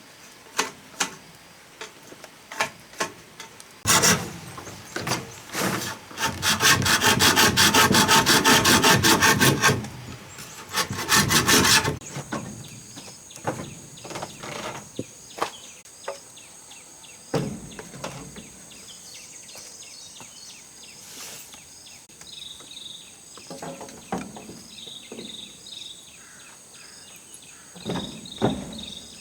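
Log being hand-sawn: scattered knocks on wood, then a loud run of rapid, even saw strokes of a few seconds, a short second run, and occasional knocks after. A steady high insect buzz and chirps sound behind the later part.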